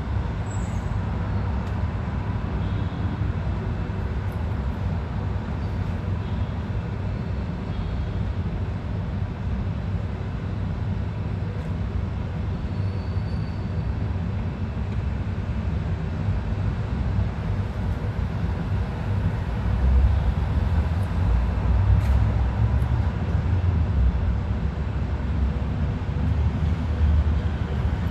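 Steady low rumbling noise that gets louder from about twenty seconds in, with a few faint, short high-pitched sounds over it.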